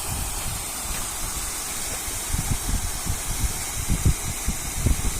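Wind buffeting the microphone: irregular low rumbling gusts, more frequent in the second half, over a steady hiss.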